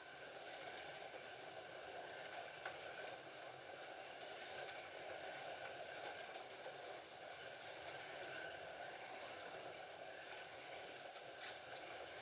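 Scalextric slot cars lapping the track: a faint, steady whir of their small electric motors and pickup braids running along the metal rails.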